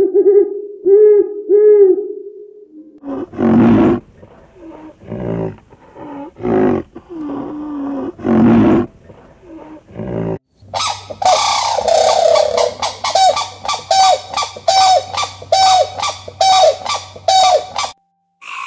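A string of separate animal calls. First an owl hoots three times, low and even. Then come loud cries with many overtones, and from about ten seconds in, a fast run of calls repeating more than once a second with clicks between them.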